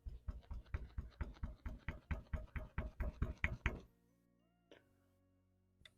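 A quick run of light knocks, about five a second, stopping just before four seconds in: tapping the tight-fitting ABS wheel-speed sensor down into its mount. Background music plays under it and carries on after the knocking stops.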